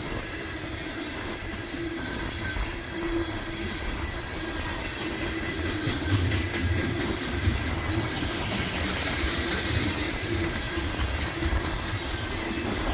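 Loaded coal train rolling steadily past, its freight cars' wheels clattering over the rail joints with a faint steady squeal. Gusty wind buffets the microphone underneath.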